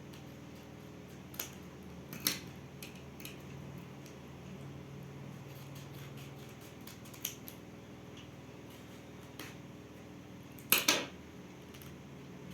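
Small school supplies and their packaging being handled: scattered light clicks and taps, with a sharp knock about two seconds in and two loud clacks close together near the end, over a faint steady hum.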